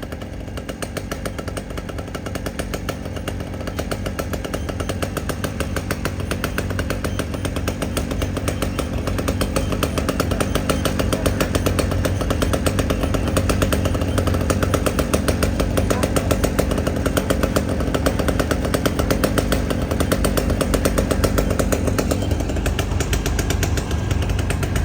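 A motor engine running steadily, its rapid even firing pulses slowly growing louder.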